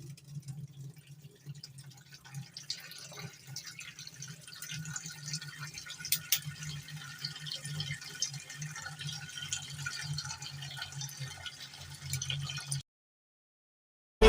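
Water from a kitchen tap running and dripping in a sink as produce is washed, with scattered light clicks and knocks. It cuts off abruptly near the end.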